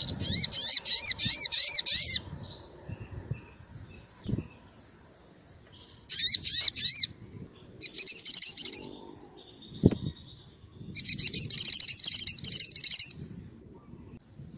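Sogon sunbird singing: four bursts of rapid, very high-pitched trilling notes, each lasting one to two seconds, with pauses between. A sharp click about four seconds in and a low knock near ten seconds.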